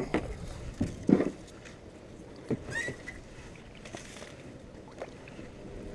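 Kayak being paddled: a few irregular paddle splashes and knocks against a low background of wind and water, with a brief whistle-like chirp about three seconds in.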